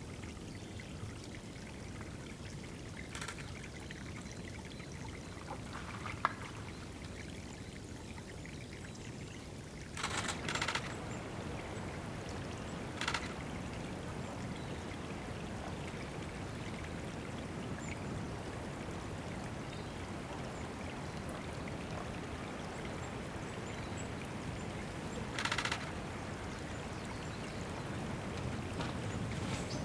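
Small stream of water trickling steadily into a pool, with a few brief louder bursts and one sharp click.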